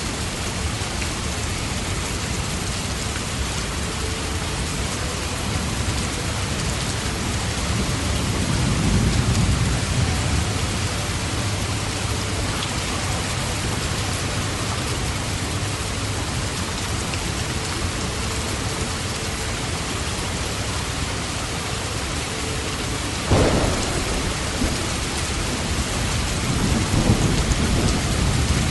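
Steady rain with thunder: low rolling rumbles about a third of the way in and again near the end, and one sudden sharp thunderclap about two-thirds through.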